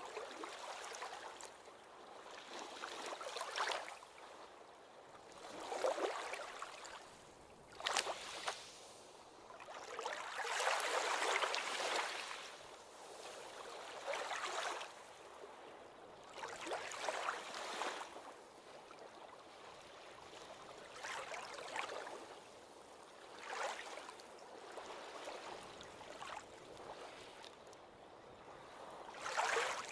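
Ocean waves washing in, each wave a rush of water that swells and fades every two to four seconds, the longest and loudest about a third of the way in.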